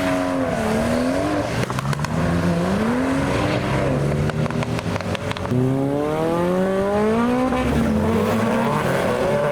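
Car engine revving hard as a car accelerates away, its pitch climbing and dropping again with each gear change. A fresh strong climb starts about five and a half seconds in.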